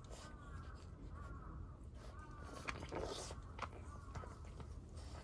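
A short animal call repeated evenly, about twice a second, fading out about halfway through. Scattered sharp clicks run throughout, with a brief rustle about three seconds in.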